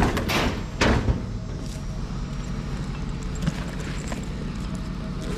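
Steady low vehicle rumble, with two loud thumps in the first second.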